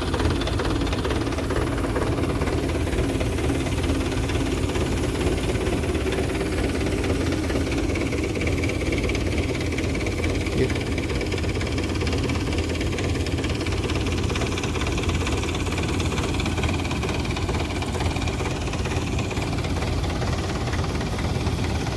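Tractor engine running steadily at a constant speed, powering a tractor-mounted HTP sprayer pump.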